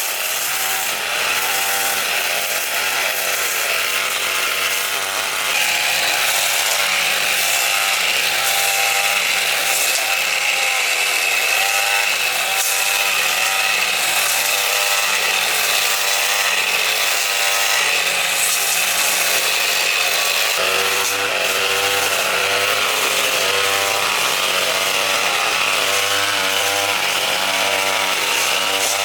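A power saw running and cutting without a break, with a steady high whine that gets a little louder about five seconds in.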